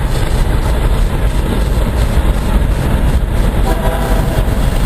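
Freight train cars rolling past close by, a loud, steady rumble and rattle of wheels on the rails.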